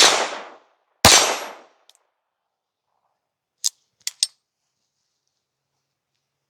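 Two .44 Magnum shots from a Sauer Western Marshal single-action revolver, about a second apart, each with a short fading tail. A little after three and a half seconds in come three short sharp clicks.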